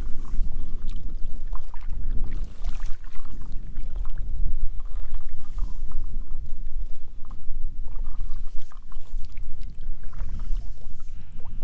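Strong wind buffeting the microphone with a heavy, choppy low rumble, and water splashing against the paddleboard in short hissy bursts every few seconds.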